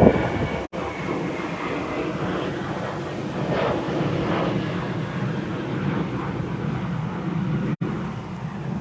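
A steady engine-like drone with a faint, slightly falling high whine, with two brief dropouts in the sound.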